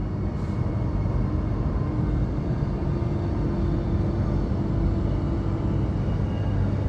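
Electric suburban train running, heard from inside the carriage: a steady low rumble with a faint whine that holds for a few seconds in the middle, as the train comes into a station.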